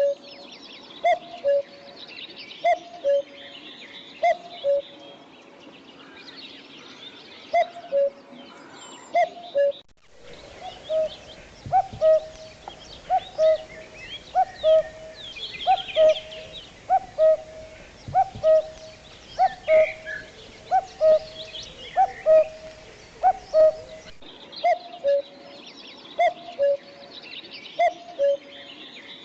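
A bird's low two-note call, a higher note then a lower one, repeated steadily about every second and a half, over a chorus of higher chirping from other birds.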